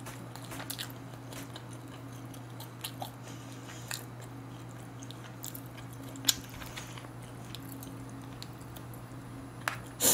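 Close-miked chewing and mouth clicks of someone eating smoked duck, over a steady low hum. A few sharp clicks, the loudest about six seconds in and another right at the end.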